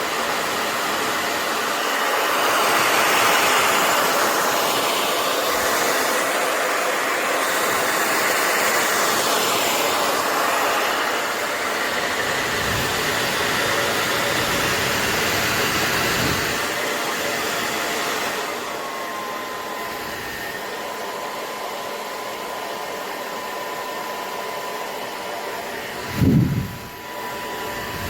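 Wavytalk 1875-watt ionic hair dryer blowing steadily. About 18 seconds in it drops a little in level and a steady motor whine comes through. Near the end there is a brief low thump.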